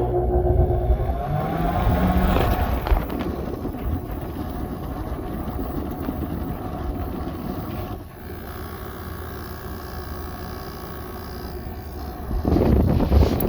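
Samsung window air conditioner starting up: a motor hum whose pitch rises over the first few seconds as the fan spins up, then a steady rush of running fan and airflow. The sound drops a little about eight seconds in and gets louder again near the end.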